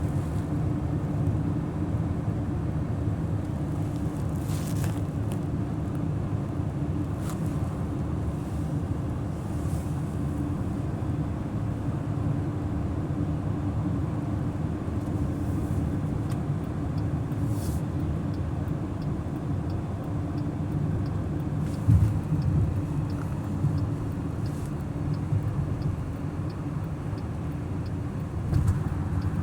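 A car driving with a steady low engine and road rumble. There is a brief louder thump about two-thirds of the way in, and a faint, even ticking through the second half.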